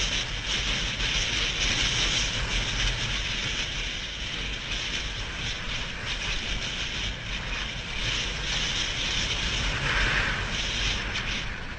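Steady wind rush over the microphone of a motorcycle being ridden, with the low rumble of the engine and road underneath.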